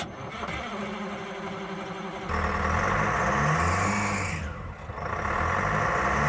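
Two-stroke 4-53T Detroit Diesel in a 1948 GMC pickup being started cold: a couple of seconds of cranking, then the engine catches and runs loudly, its revs dipping and rising again.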